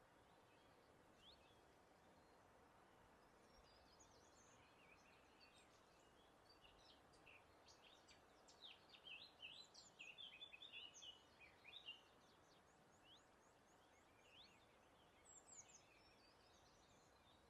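Birds singing faintly: many quick, high chirps and short trills from several birds, densest in the middle and thinning toward the end, over a soft, steady background hiss.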